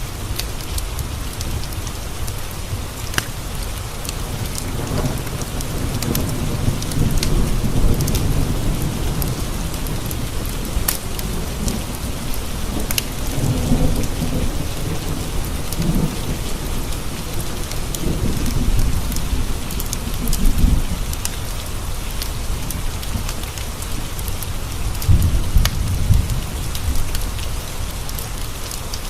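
Steady rain with thunder rolling in low rumbles several times, the heaviest near the end, and occasional sharp clicks over the hiss.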